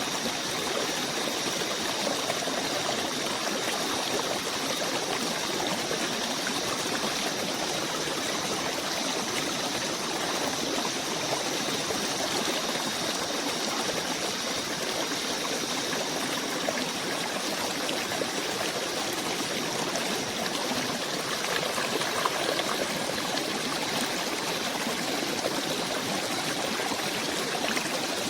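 Steady rushing of a flowing stream in a spring forest ambience. Two faint high steady tones sound over it and fade out about two-thirds of the way through.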